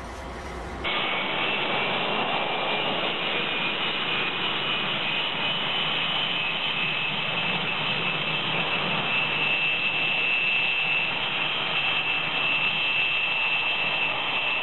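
Rail-mounted snow blower running at the machine, a loud steady roar with a thin high whine held above it.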